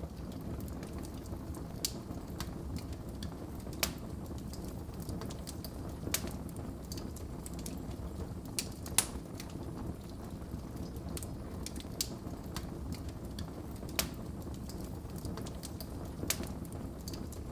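Wood fire crackling in a fireplace: a steady low hiss and rumble of burning logs with sharp, scattered pops every second or two, the loudest about halfway through.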